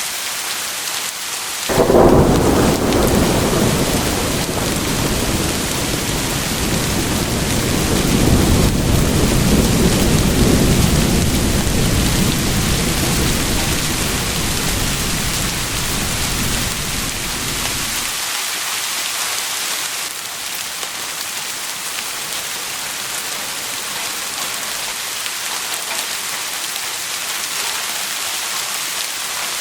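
Steady heavy rain with a thunderclap about two seconds in that rolls on as a low rumble, swells again, and cuts off suddenly after about sixteen seconds, leaving only the rain.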